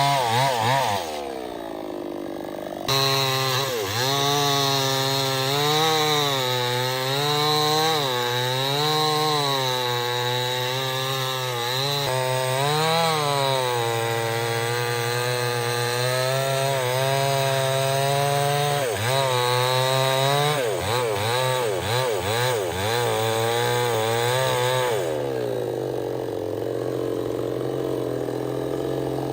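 Chainsaw engine running hard, its pitch wavering up and down as the chain bites into wood. The revs drop about a second in, pick up again sharply near three seconds, and run steadier near the end.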